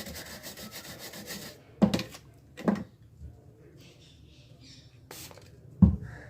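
A tool scraping rapidly back and forth across a laptop motherboard, the cleaning of a damaged solder-pad area, stopping about one and a half seconds in; then three sharp knocks and a short click as the board and tools are handled.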